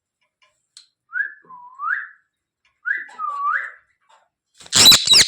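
Two short whistled phrases, each a brief note followed by a swoop down and back up, then near the end a burst of loud, harsh screeches from a pet parrot, a quick run of calls in a row.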